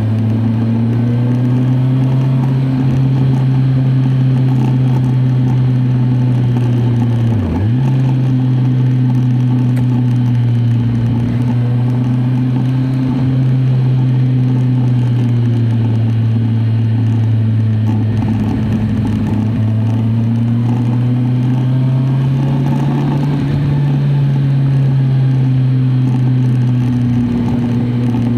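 Kawasaki Z1000SX's inline-four engine running steadily under way, its pitch drifting gently up and down with the throttle. About seven and a half seconds in the pitch dips sharply and recovers, as on a gear change.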